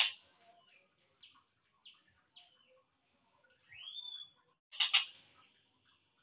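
Tengkek buto song slowed down for masteran: a few short scattered chirps, then a whistle that sweeps up and levels off about four seconds in, and a brief loud harsh note near five seconds.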